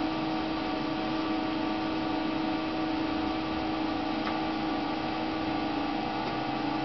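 Steady electrical hum of equipment in a small room: a constant low tone over an even hiss, unchanging throughout.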